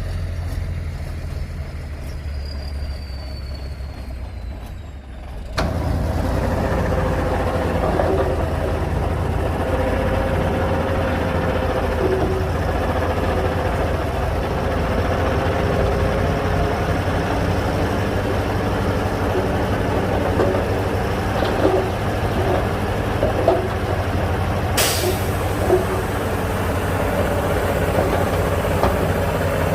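Heavy diesel earthmoving machinery working: a low engine rumble, then from about five seconds in a louder running engine with intermittent clanks. A brief sharp hiss sounds once near the end.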